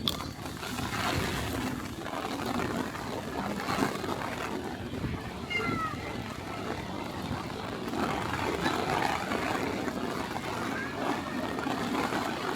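Steady street noise with indistinct voices, and a few short calls that rise and fall in pitch near the middle and again near the end.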